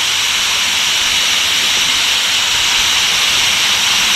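Waterfall pouring: a loud, steady rushing hiss of falling water.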